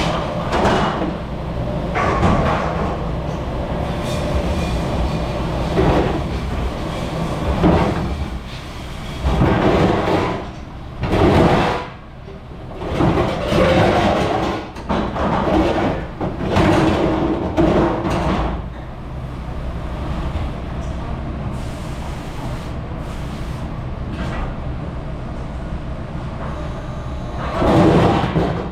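Commercial kitchen dish pit at work: a steady low machine rumble with repeated bursts of dishes and racks being handled.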